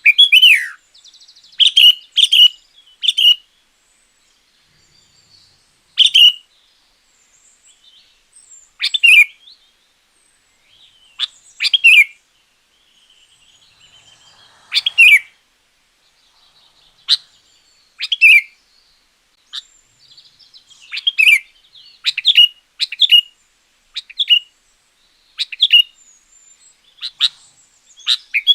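Sooty-headed bulbul calling over and over: short, loud notes that slide down in pitch, spaced one to three seconds apart, with soft chattering between them. It is the bird's full song, used to lure wild bulbuls and to teach caged ones.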